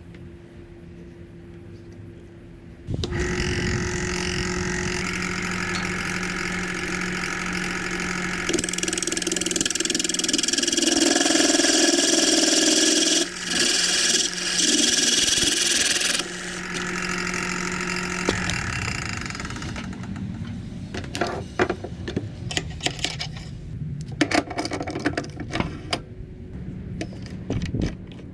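An electric workshop power tool switches on abruptly about three seconds in and runs steadily. It grows louder and hissier for several seconds in the middle as it cuts into the bamboo, then its steady hum stops. Scattered clicks and knocks follow.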